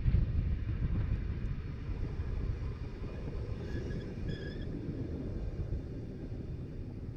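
Rhaetian Railway narrow-gauge train running, a steady low rumble heard from on board, easing a little after the first couple of seconds. Two brief faint squeaks sound about four seconds in.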